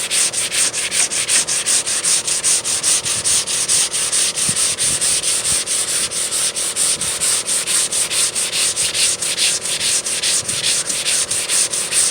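Hand sanding block with 220-grit dry sandpaper rasping back and forth over polyester body putty on a car door, in quick, even strokes several times a second, with light pressure.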